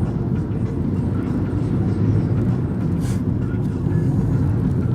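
A car driving on the road, heard from inside the cabin: steady engine and tyre rumble, with a brief hiss about three seconds in.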